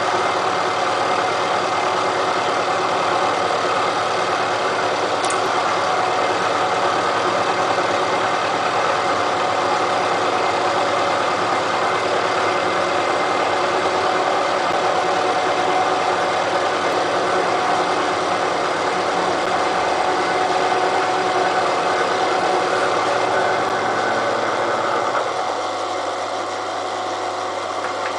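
Elliott Omnimill 00 milling machine running, its cutter taking a cut across the steel of a railway-line anvil: a steady machine hum with cutting noise. About 25 seconds in, the sound drops a little and its lower tones change.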